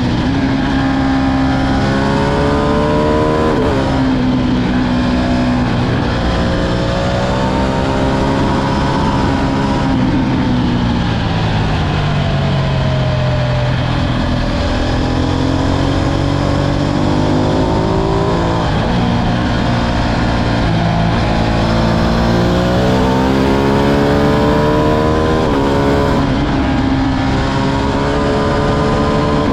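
Ducati Streetfighter V2's 955 cc Superquadro V-twin engine under hard acceleration, its pitch climbing and dropping sharply at each upshift several times, with one long slowdown about a third of the way in before it pulls again.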